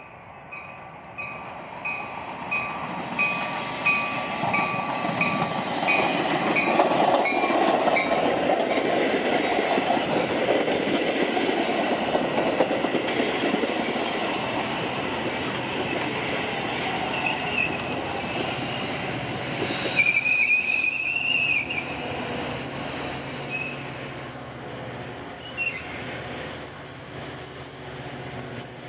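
A train rolling past on the rails, building up over the first several seconds and then running on steadily, with high-pitched wheel squeal in the second half. A short high ringing tone repeats about one and a half times a second during the first eight seconds.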